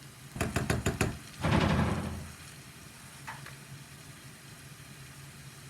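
Kitchen cooking sounds: a quick run of about five knocks of a utensil on a pan, then a short burst of sizzling that fades within a second, over a low steady hum.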